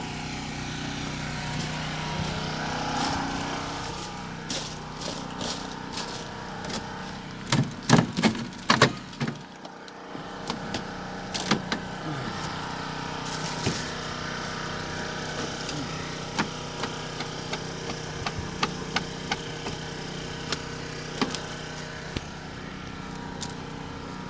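Small portable generator engine running steadily at constant speed. Over it come irregular sharp clicks and cracks, loudest about eight to nine seconds in.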